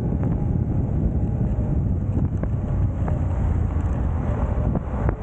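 Suzuki V-Strom motorcycle under way, its engine running steadily low down with heavy wind noise on the microphone from riding.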